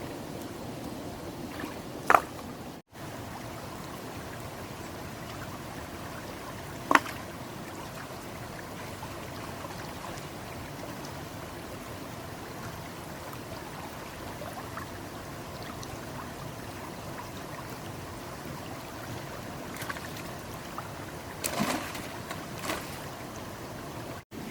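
Water running steadily, like a small stream, with a few sharp splashes or knocks: one about two seconds in, one about seven seconds in, and a cluster near the end.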